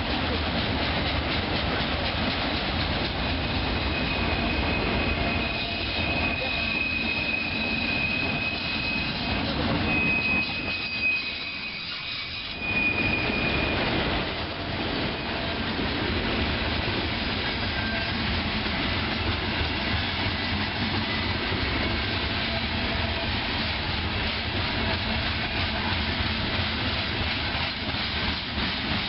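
A train rolling past on the rails with a steady rumble and wheel clatter. A thin, high wheel squeal comes and goes through the first half.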